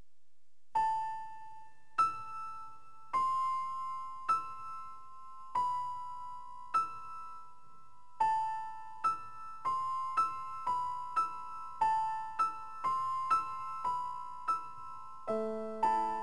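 Background music: a piano plays a slow, simple melody one note at a time, starting about a second in and quickening midway, with lower accompanying notes joining near the end.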